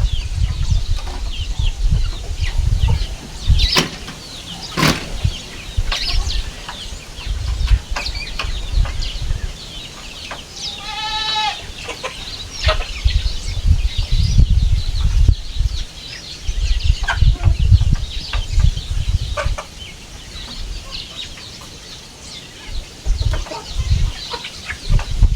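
Chickens and young chicks calling around the yard: many short, high peeps throughout, and one longer pitched call about eleven seconds in. Irregular low rumbling noise runs underneath.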